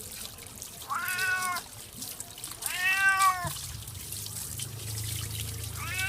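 Domestic cat meowing three times, each meow rising then falling in pitch, the second the longest and loudest. A low steady hum comes in about halfway through.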